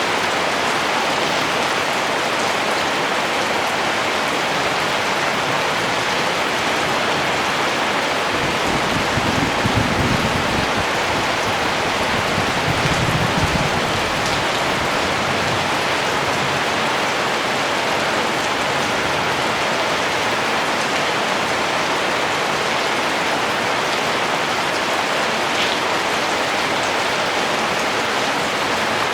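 Steady rain falling, an even hiss of drops on surfaces. Twice around the middle a brief low rumble rises under it.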